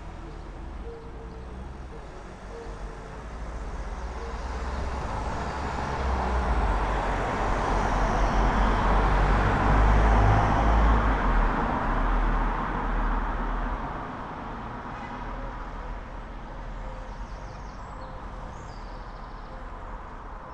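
A road vehicle passing along the street: tyre and engine noise swells to a peak about ten seconds in and fades away over the next few seconds, over a low background traffic hum.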